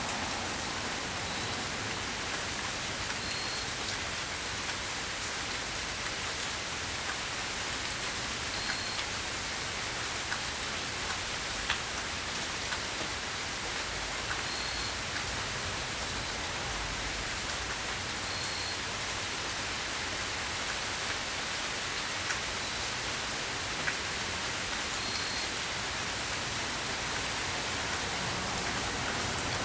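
Steady rain falling, with a few faint drop taps and a short, faint high-pitched tone that recurs every few seconds.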